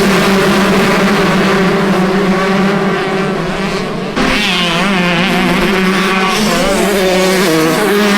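Several motocross bike engines running and revving, their pitches wavering up and down, with an abrupt change in the sound about four seconds in.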